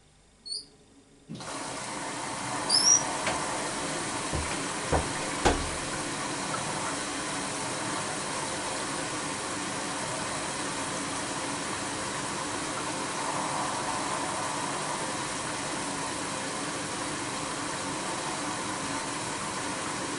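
Bosch WAB28220 washing machine: two short high beeps, then about a second in the water inlet valve opens and water hisses steadily into the machine as it fills. A few knocks follow soon after.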